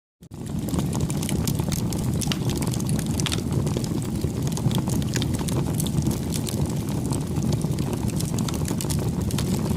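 Bonfire burning: a steady low rush of flames with frequent sharp crackles and pops of burning wood, cutting in abruptly just after the start.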